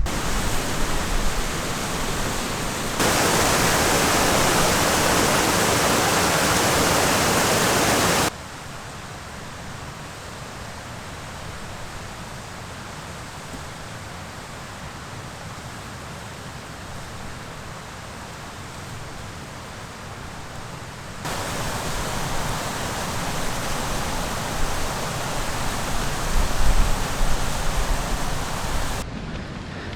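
Wind and rain making a steady rushing hiss with low rumbling buffets on the microphone. It jumps abruptly louder about three seconds in, drops sharply to a quieter hiss about eight seconds in, and comes back louder and gustier about twenty-one seconds in.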